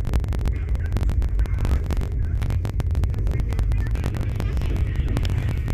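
Rajdhani Express train in motion: a steady low rumble with frequent sharp clicks.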